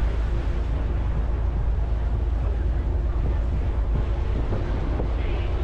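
Steady low rumble of a river cruise boat under way, with wind noise on the microphone.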